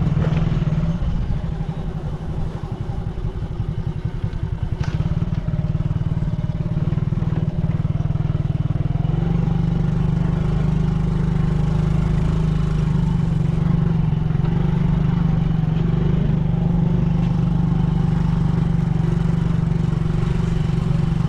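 Motorcycle engine running steadily while being ridden, with a single sharp knock about five seconds in.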